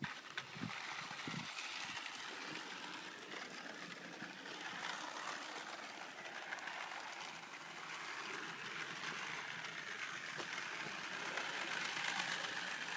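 Garden-railway model train running along its outdoor track, a steady mechanical whirring clatter that grows louder toward the end.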